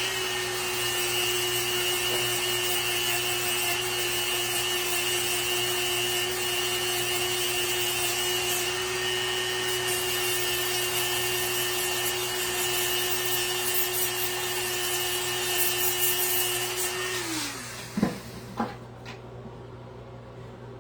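Small high-speed electric power tool, such as a rotary tool used for shaping wood, spinning up to speed with a steady high whine. It is switched off after about seventeen seconds and winds down.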